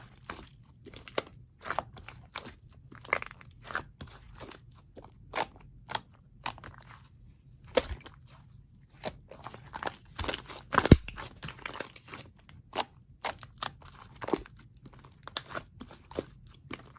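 Clay-mixed slime being squished and poked by hand, giving irregular crackling clicks and pops, a few each second, with one louder pop about eleven seconds in.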